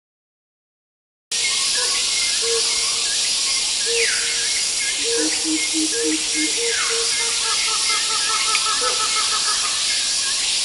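Tropical rainforest ambience: a dense, steady hiss of insects with birds calling over it, including a run of short repeated low notes, chirps and two falling whistles. It starts suddenly about a second in.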